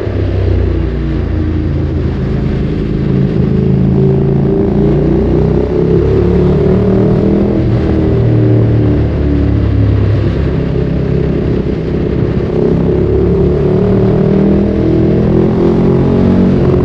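Ducati Streetfighter 848's L-twin engine through a Termignoni exhaust, heard from the rider's seat while riding. The revs rise and fall several times as the bike accelerates and eases off, climbing again near the end.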